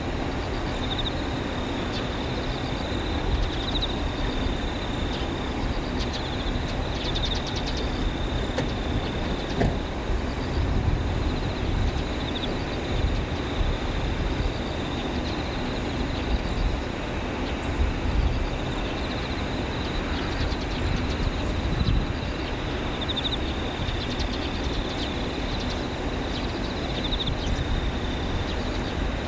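Distant Airbus A320 jet engines running at idle as it taxis, a low steady rumble that swells and eases, with a faint steady hum. Insects chirp throughout in repeated short high trills.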